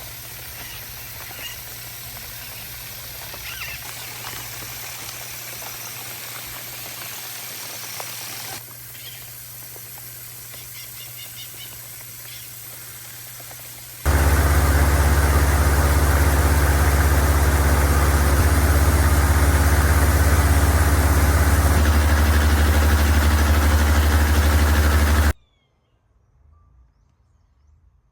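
Quiet outdoor ambience that cuts abruptly, about halfway through, to a loud, steady, low mechanical hum like a running engine. The hum stops suddenly near the end.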